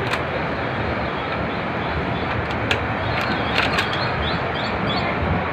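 Steady rumble and rattle of an Indian Railways passenger train rolling slowly along a platform, heard from an open coach door, with a few sharp clicks of the wheels over rail joints about three to four seconds in.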